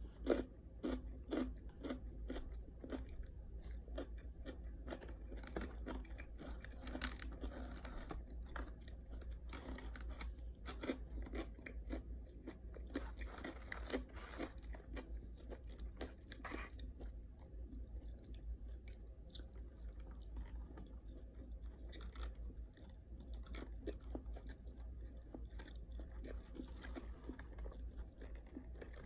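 A person chewing crunchy food close to the microphone. Rapid crunches fill roughly the first half, then the chewing turns sparser and softer, over a steady low hum.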